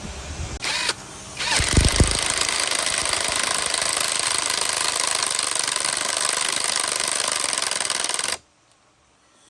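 A loud power tool running steadily for about seven seconds, then cutting off suddenly. A short burst and a few low thuds come just before it starts.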